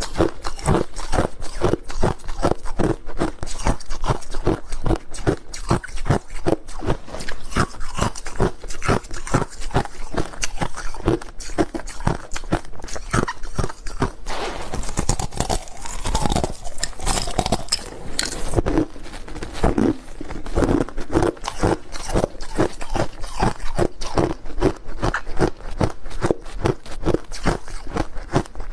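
Crushed ice being chewed close to the microphone: rapid, continuous crunching with brief pauses between bites.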